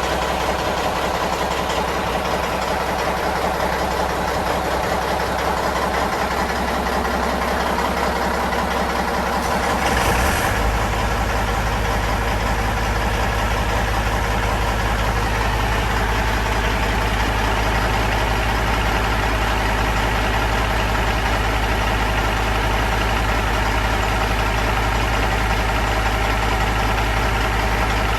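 Caterpillar C18 inline-six diesel engine idling steadily while warming up. About ten seconds in there is a brief hiss, and the engine settles to a slightly different steady speed.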